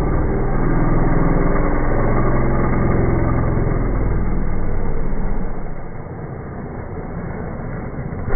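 A vehicle engine running, its note climbing over the first few seconds and then falling away as the sound drops in level about halfway through. A sharp click comes at the very end.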